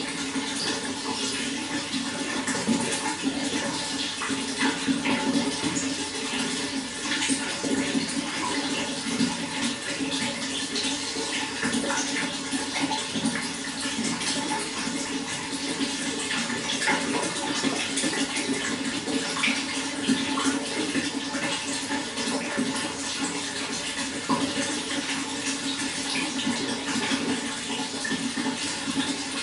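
Running water, splashing in a steady flow with many small splashes throughout.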